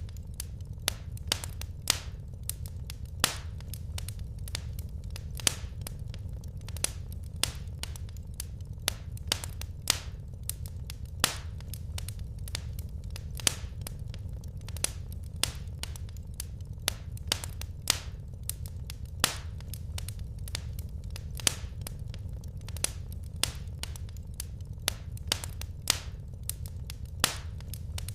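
Wood fire crackling in a fireplace: irregular sharp pops and snaps from the burning logs, several each second, over a steady low rumble.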